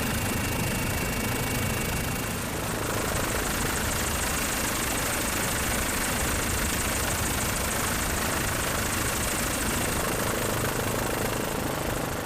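Steady engine drone, loud and unbroken, with a thin high whine joining about two and a half seconds in.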